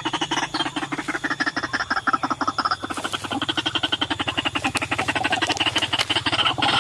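White-breasted waterhen call: a fast, evenly repeated run of call notes, many a second, going on without a break.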